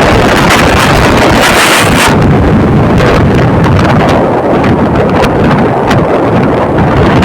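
Loud, steady wind buffeting the microphone, with a low rumble underneath and a few scattered sharp clicks.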